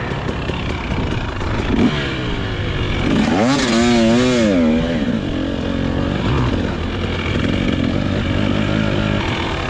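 A KTM 300SX's two-stroke single-cylinder engine under load on a motocross track, its revs rising and falling as the bike is ridden, with chassis clatter.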